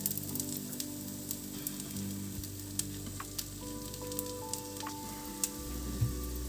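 Food frying in a pan: a steady sizzle with scattered crackling pops.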